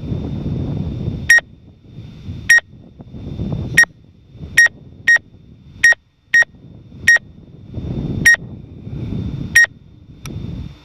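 Short electronic beeps, about eleven at uneven spacing, each a brief sharp high tone, with wind buffeting the microphone between them.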